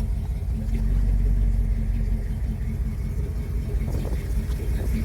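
Rebuilt Chevy 396 big-block V8 running steadily with a low rumble, heard from inside the car's cabin.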